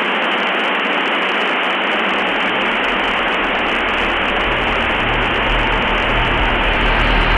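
Steady radio static hiss, narrow and thin like a radio channel. A low rumble fades in about two seconds in and grows louder toward the end.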